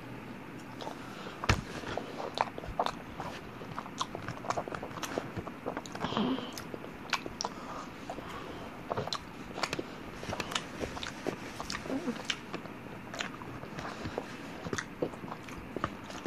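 A person chewing a mouthful of TV-dinner lasagna, with wet mouth clicks and smacks coming irregularly, several a second.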